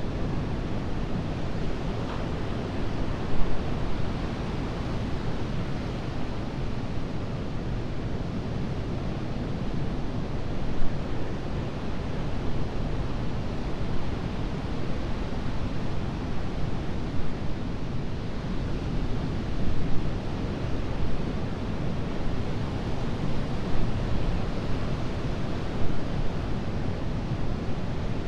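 Ocean surf breaking and washing on a sandy beach: a continuous rushing noise, heaviest in the low end, that swells and eases with occasional brief louder peaks as waves break.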